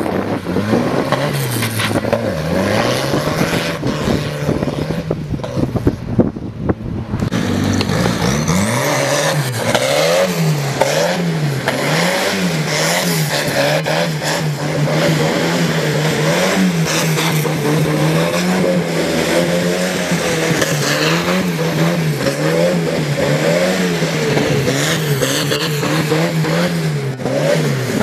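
Tractor's turbocharged Volvo engine running hard. From about eight seconds in its pitch rises and falls about once a second.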